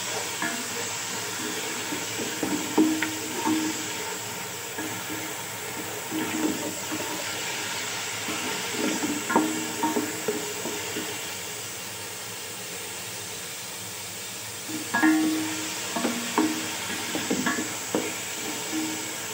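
Onion, tomato and green-chilli masala frying in oil in a metal pot, a steady sizzle, while a wooden spoon stirs it, with knocks and scrapes against the pot several times, loudest about three seconds in, near the middle and about fifteen seconds in.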